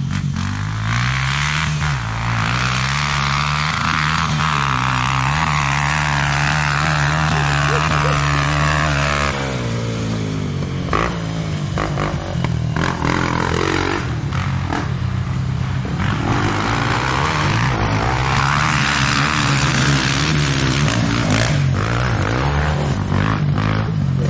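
Motorcycle engines running and revving, the pitch shifting up and down as they accelerate; louder through the first third, dropping off around a third of the way in, and building again past the middle.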